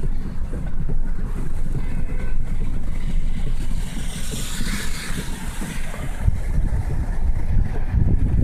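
Continuous low rumble of a moving vehicle mixed with wind on the microphone, with a hissing rush rising and fading about four to five seconds in.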